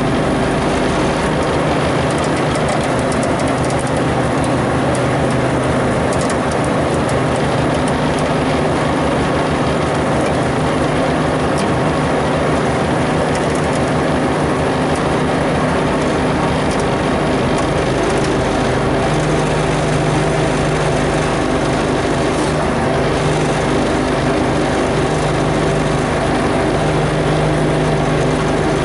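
Heavy vehicle engine running steadily, a low even rumble with a constant hum on top; its tone shifts slightly about two-thirds of the way through.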